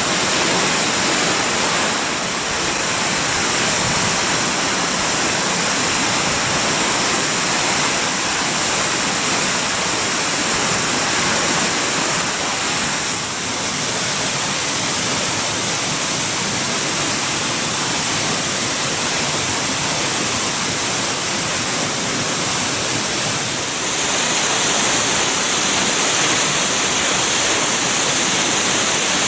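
Onogawa Fudō Falls pouring: a steady rush of falling water. Its tone shifts slightly about halfway through and again near the end.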